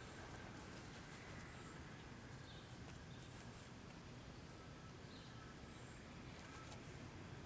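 Quiet outdoor ambience: faint, short, high bird chirps every second or so over a low, steady background rumble.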